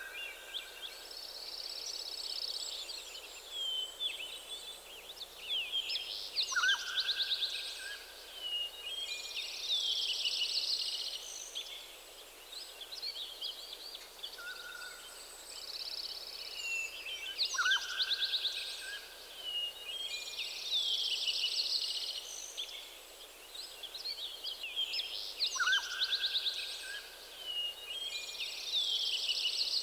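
Forest birds singing: bursts of high, fast, warbling and trilled song every few seconds, with a lower slurred whistle now and then, over a faint steady background hiss.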